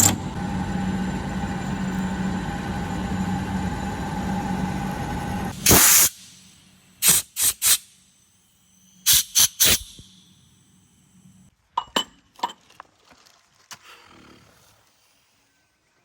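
Machinery running steadily with a constant hum, which stops abruptly after a loud burst about six seconds in. Then come several sharp knocks in quick groups of three, and a few fainter clicks near the end.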